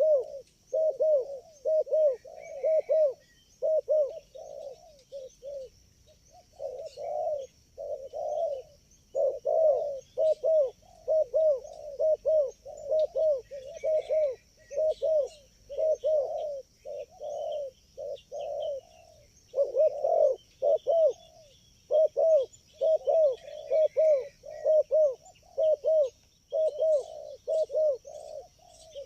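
Spotted doves (tekukur) cooing in quick, rhythmic runs of short coo notes, phrase after phrase with only brief pauses. Faint small-bird chirps and a steady faint high-pitched buzz sit underneath.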